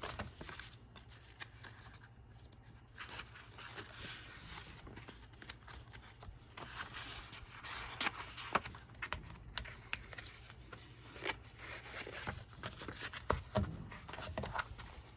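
Paper being handled and rustled, with many small clicks and taps.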